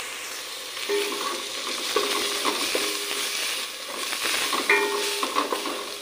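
Onion and spice masala sizzling in an aluminium pot while a wooden spatula stirs and scrapes it, with a few short squeaky scrapes of the spatula on the pot. The ground spices are being fried to cook off their raw taste.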